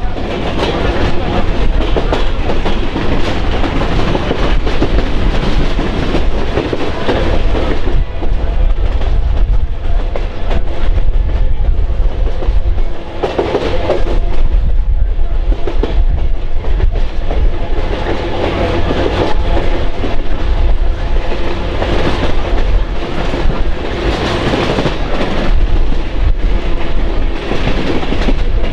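Passenger train rolling along, its wheels clicking over the rail joints over a steady low rumble.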